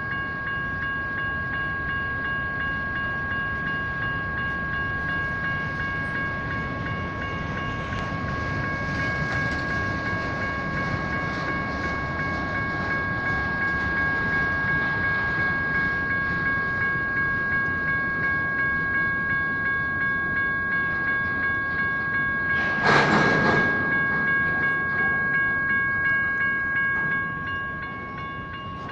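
General Signals Type 1 electronic crossing bells ringing steadily while a train rolls through the crossing, its wheels clicking in a regular rhythm over the rails in the second half. A short, loud burst of noise comes about three-quarters of the way through.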